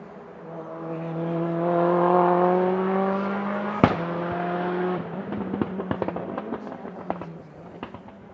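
Lancia Delta HF Integrale hillclimb car's turbocharged four-cylinder pulling hard, its note climbing, with one sharp bang about four seconds in. The engine note then cuts off and a string of crackles and pops follows on the overrun, from the anti-lag system.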